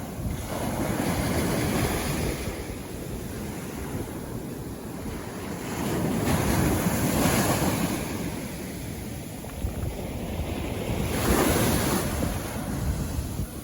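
Ocean waves breaking and washing up a beach, surging three times, about a second in, around the middle and near the end, over a steady wash of surf.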